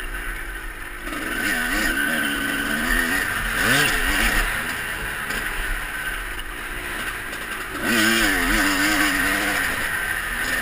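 Motocross bike engines revving up and down over and over as riders go round the track, one getting louder about eight seconds in, with a low wind rumble on the microphone.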